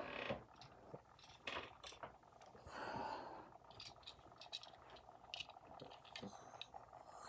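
Faint handling noises: light clicks and taps of small diecast model cars being picked up and set down, with a short rustle about three seconds in.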